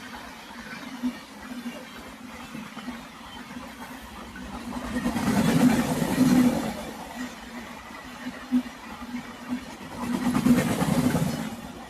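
An engine running steadily with a low, throbbing hum. It swells louder twice, about halfway through and again near the end, then falls back.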